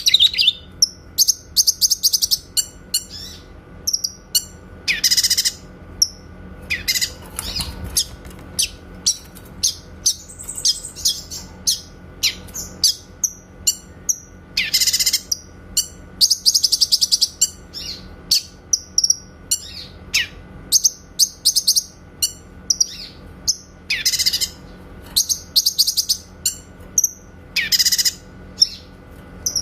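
Cucak kinoy singing: loud, sharp calls and rapid trilled bursts, the clear 'tembakan' song, recurring every few seconds with shorter chirps between them.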